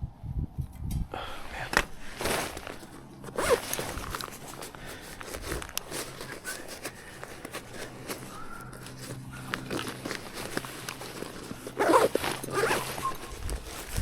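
Rustling and handling of outdoor gear, with a zipper pulled open and closed several times, the loudest pulls about 2 and 3.5 seconds in and near the end.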